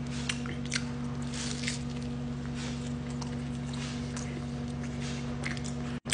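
Someone chewing a chicken quesadilla close to the microphone: small irregular wet smacks and crunches over a steady low hum.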